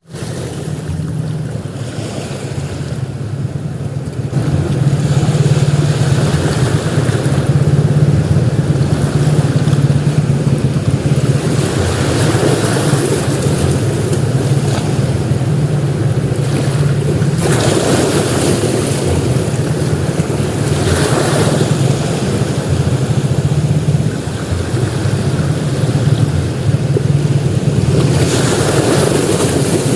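Sea waves breaking and washing up a beach: a steady wash of surf with a low rumble underneath, swelling louder several times as bigger waves break, around the middle and near the end.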